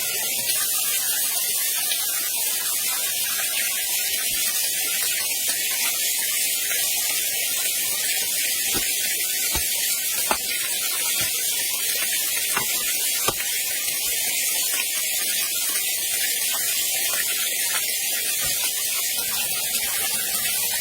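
Steady rush of falling water from a waterfall, a constant even hiss, with a few faint clicks in the middle.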